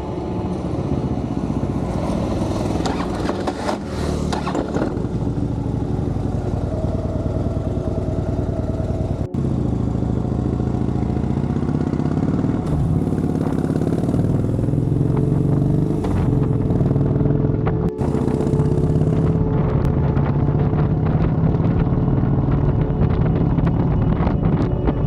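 Harley-Davidson Dyna's V-twin engine running as the motorcycle is ridden, its pitch rising and falling with throttle and gear changes. The sound cuts out for an instant twice.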